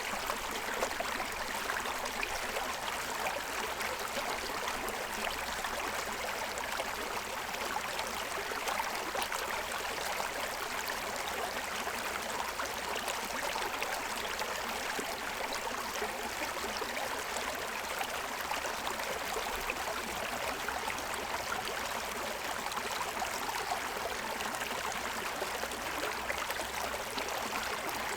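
Shallow stream running steadily over a stony bed, water splashing and gurgling against the stones.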